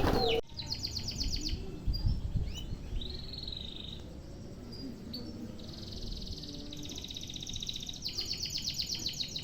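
Canary singing: a quick trilled roll near the start, a few short whistled notes, then long rolling trills through the second half.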